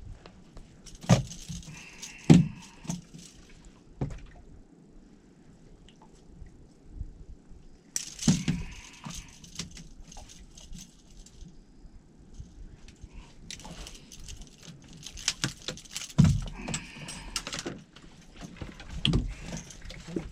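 Irregular knocks, thumps and rattling from fishing gear and a catch being handled, with the loudest thumps about a second and two seconds in and more around eight and sixteen seconds in.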